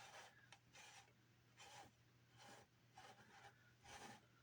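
Near silence, with faint soft rubbing noises every half second to a second from a plastic figure being handled and turned in the hands, over a low steady hum.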